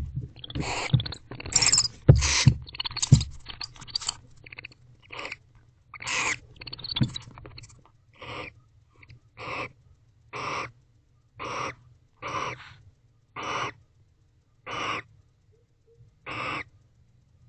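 Barn owl giving repeated hissing calls in a nest box. The calls come thick and irregular at first, with low thumps of movement, then settle to one hiss about every second.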